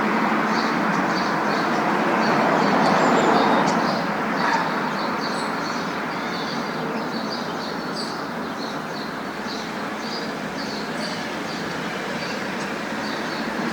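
Steady road noise of a moving car, an even rushing hum, a little louder in the first few seconds. Short high chirps are scattered over it throughout.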